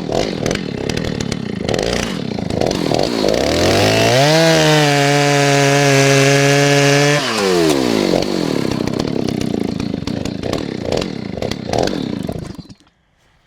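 Stihl 039 two-stroke chainsaw running at a fast, uneven idle, then revved to full throttle and held there for about three seconds before dropping back to idle. It stops abruptly near the end. The idle is way high, which the owner puts down to his last adjustment of the idle screw.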